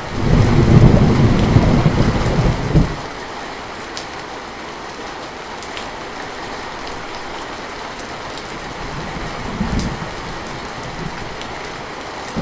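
Steady heavy rain, with a deep roll of thunder for the first three seconds that stops abruptly, and a shorter, fainter rumble near the end.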